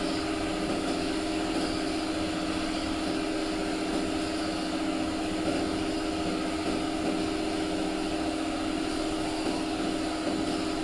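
A motor running steadily: a constant hum with one strong unchanging pitch over a wide hiss.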